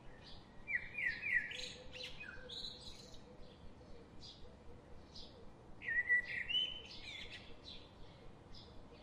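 Wild songbirds in a forest: a steady scatter of short high chirps, with two louder song phrases of quick rising and falling notes, one about a second in and another about six seconds in.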